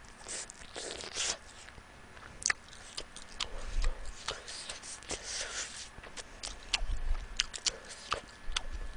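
A person chewing a sauce-glazed fried chicken wing close to the microphone: irregular wet mouth clicks and smacks with soft crunching.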